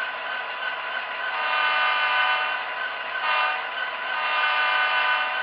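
Simulated diesel locomotive horn from the Tsunami sound decoder in an HO scale Athearn BNSF diesel, played through its small onboard speaker. It sounds two long blasts of about two seconds each, with a short break between them, over a steady background hum.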